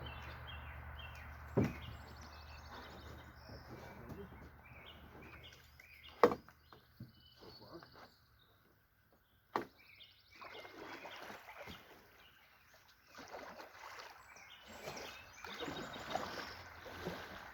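Canoes being handled on the shore: a few sharp knocks against a hull, the loudest about six seconds in, among quiet outdoor ambience with small high chirps.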